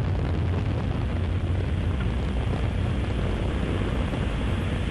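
Steady low rumble with a hiss over it, even throughout with no distinct events.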